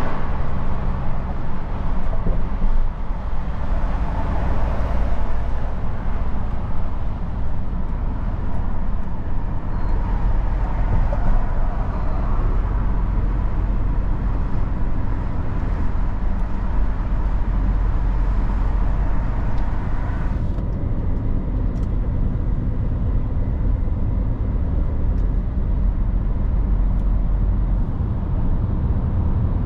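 Scania R450 truck's six-cylinder diesel engine and road noise while driving: a steady low rumble under a broad hiss of tyres and wind. A little after twenty seconds the higher hiss suddenly drops away, leaving mainly the low engine rumble.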